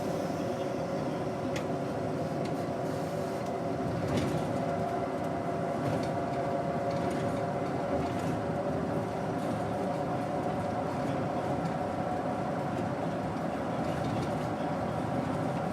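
Daewoo BS110CN bus's Doosan GE12Ti turbocharged natural-gas engine running steadily, heard from inside the bus together with road rumble, and a few faint rattles and clicks.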